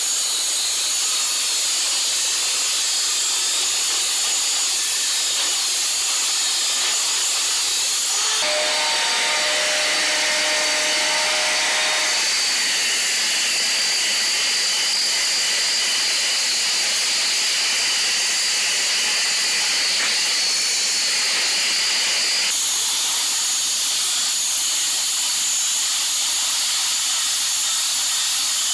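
Angle grinder, converted to cordless with an 895 DC motor, grinding or cutting with a steady, loud hiss. The tone of the hiss shifts a few times, briefly near a third of the way in and again about three quarters through.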